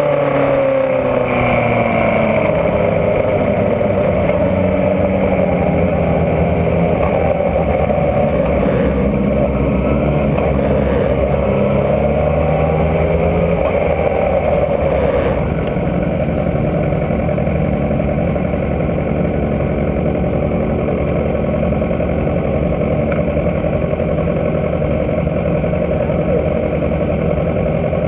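Racing motorcycle engines running. For the first half, revs rise and fall in several overlapping pitches. About halfway through, the sound drops a little and settles into a steady idle.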